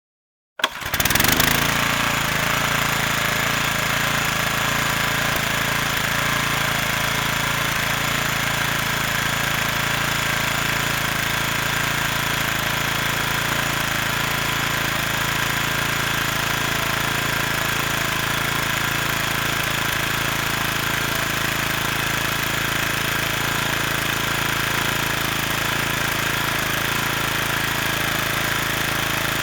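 Fire truck engine idling steadily, cutting in suddenly within the first second after silence.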